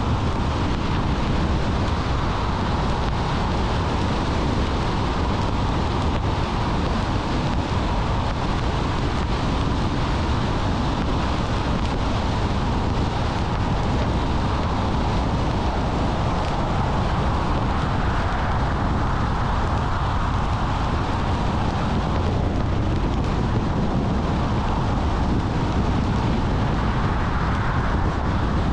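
Steady road and engine noise of a car driving, with wind noise.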